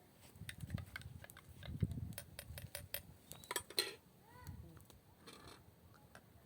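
Scattered sharp clicks and clinks, densest in the first four seconds, with a few low thuds and a faint short arching call about four and a half seconds in.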